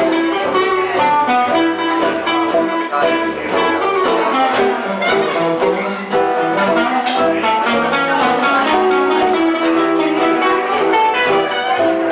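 A live band playing music, with plucked guitar prominent among quick, busy notes.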